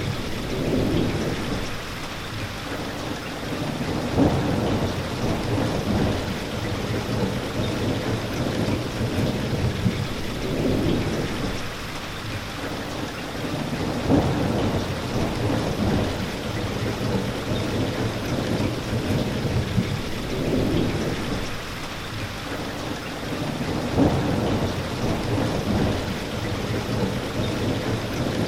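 Steady heavy rain falling, with low rumbles of thunder swelling and fading every several seconds.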